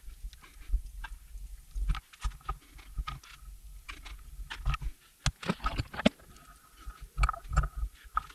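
Irregular clinks, knocks and scrapes of hand tools working on a corroded motorcycle brake caliper, with a faint high squeak coming and going.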